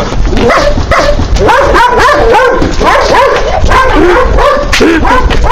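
A small animal yelping and whimpering in a fast, unbroken run of short, high, rising-and-falling cries.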